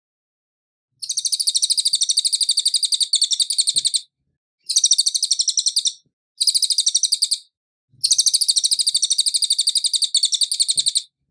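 Cililin songbird singing in four rapid runs of repeated high notes, about ten a second, with short pauses between the runs.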